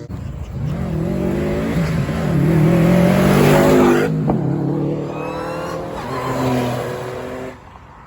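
A car engine revving hard at high throttle. It is loudest about three to four seconds in, then its pitch climbs again before the sound drops off suddenly near the end.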